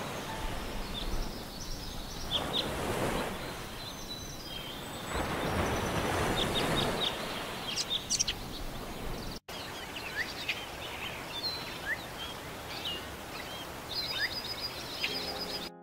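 Small birds chirping, short high calls scattered throughout, over a steady outdoor noise bed that swells twice in the first half. The sound drops out for a moment a little past halfway.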